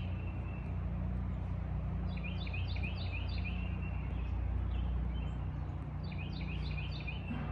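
A songbird singing two quick runs of short repeated chirps, one a couple of seconds in and another near the end, over a steady low hum.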